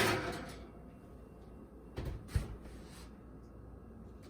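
Kitchen handling sounds: a short scraping noise fades out at the start, then two or three knocks come about two seconds in.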